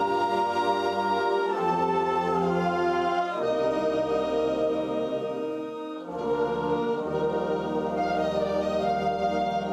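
Concert wind band playing slow, held chords, with the harmony shifting a few times and a brief softening about six seconds in before the next chord.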